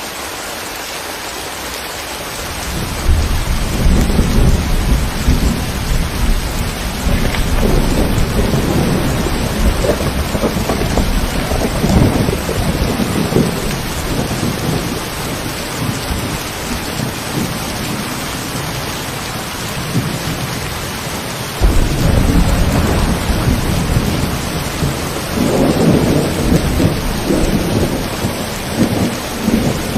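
Steady rain with rolling thunder. A deep rumble builds about three seconds in and slowly fades, then a second peal breaks in suddenly past the twenty-second mark.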